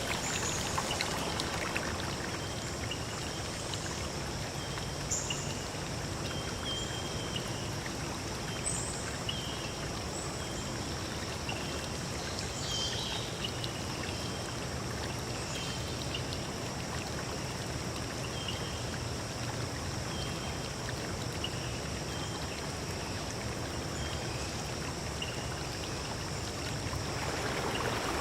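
Forest stream running steadily over stones, with short high-pitched calls repeating every second or two and a steady high whine above it.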